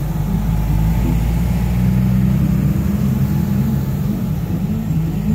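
Jeeps driving slowly past one after another, an older Wrangler and then a muddy Cherokee close by, their engines running at low revs in a steady low hum.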